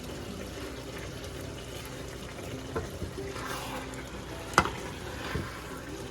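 Chicken, spinach and yogurt being stirred in a pot on the heat, with a steady low sizzle. A few sharp knocks of the spoon against the pot are heard, the loudest about two-thirds of the way through.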